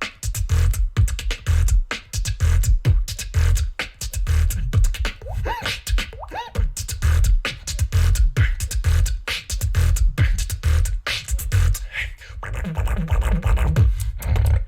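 Fast, dense beatboxing: a single performer's mouth-made kick drums, deep bass and sharp snares and clicks on a quick beat, with a few vocal pitch glides about six seconds in and scratch-like sounds.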